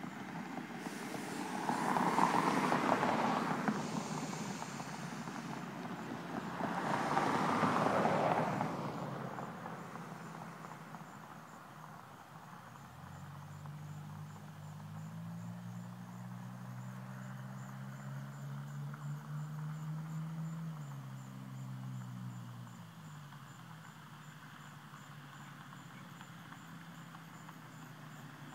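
Vehicles passing: two loud rushes of car noise swell and fade in the first eight seconds. Then a low engine drone builds, creeps up in pitch, drops in pitch and fades away.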